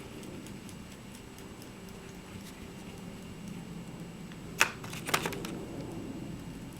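Oil pastel strokes scratching and ticking faintly on paper, with two sharp clicks a little past halfway.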